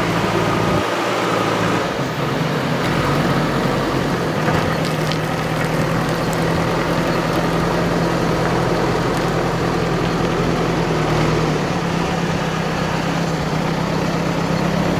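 Diesel engine of a backhoe loader running steadily, a continuous low engine drone.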